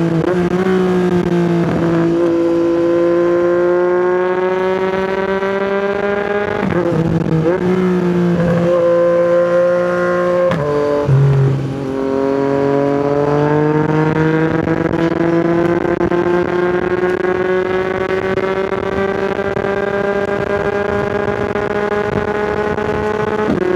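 Yamaha MT-09 three-cylinder engine through an Akrapovic exhaust, pulling under throttle while riding. Its pitch climbs steadily and drops at gear changes about 2, 7 and 11 seconds in, then rises in one long pull through the rest.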